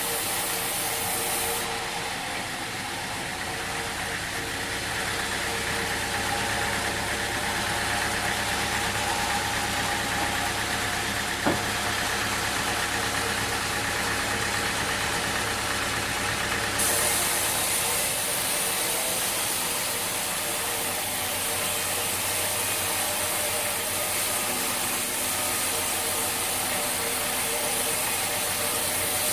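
Sawmill machinery running steadily, with one sharp knock near the middle.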